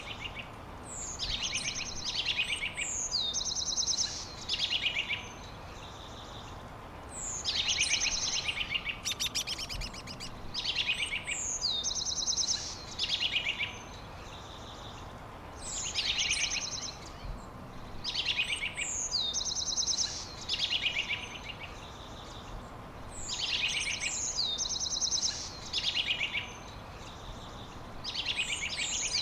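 A songbird singing the same high phrase over and over, about four times, roughly every eight seconds. Each phrase lasts a few seconds and is made of quick downward-sweeping notes and rapid trills, over a steady background hiss.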